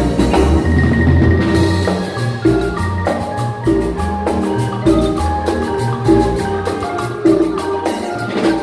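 Guatemalan marimba ensemble playing a lively tune, with quick mallet runs over deep bass notes, backed by drums and other percussion.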